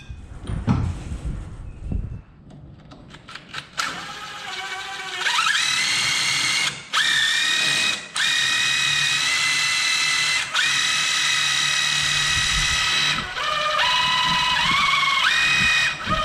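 A handheld electric power tool, drill-like, spins up with a rising whine and runs in several trigger pulls, stopping briefly between them. Its pitch drops for a couple of seconds near the end and then climbs back. A few light metallic clicks come before it starts.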